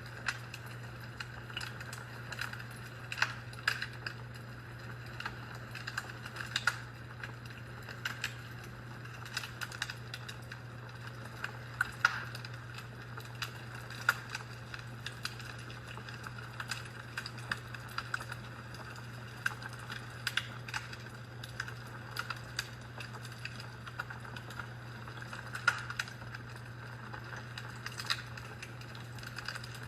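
Fireplace crackling, with irregular sharp pops and snaps of varying loudness over a steady low hum.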